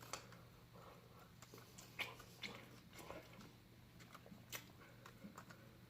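Faint chewing and biting of someone eating, with a few sharp mouth clicks, over a faint steady low hum.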